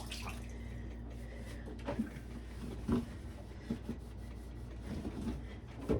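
A few light knocks and clunks of plastic refrigerator drawers and shelves being handled and pulled out, over a steady low hum.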